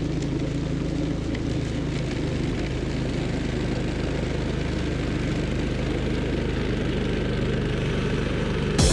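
Toro Power Max Commercial 1428 two-stage snowblower's engine running steadily while clearing snow, with a sudden louder noise at the very end.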